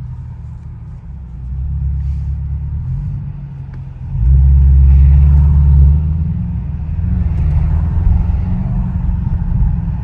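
Straight-piped Audi S7 exhaust, its sound actuator switched off, droning low under way. It opens up into a loud, deep surge about four seconds in for a couple of seconds, then settles back to a steady rumble.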